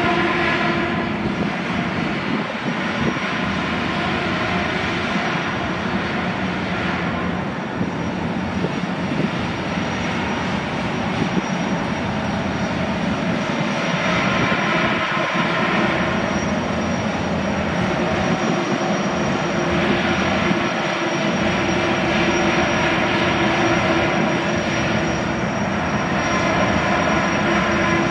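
Loud, continuous power-tool noise, which the uploader takes for sanding or grinding aboard a moored car ferry, swelling and easing about every six seconds. It largely drowns out the Boeing 929 Jetfoil's own engine sound as the jetfoil comes into port.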